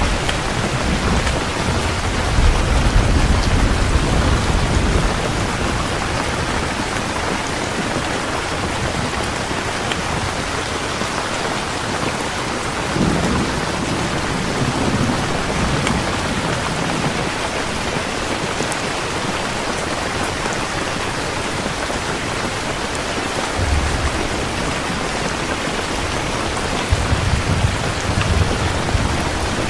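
Heavy rain falling steadily, with low thunder rumbling at the start, again about halfway through, and near the end.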